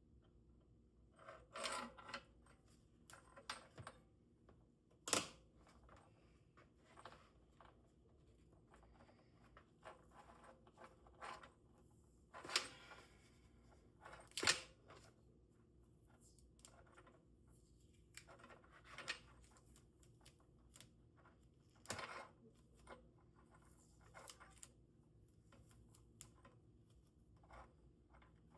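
Faint, scattered handling sounds from an opened MIG welding gun handle: short clicks and a few brief tearing rasps as tape is pulled off the trigger-switch wiring.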